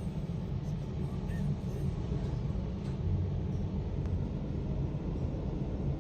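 Automatic drive-through car wash machine running, heard from inside the car's cabin: a steady low rumble.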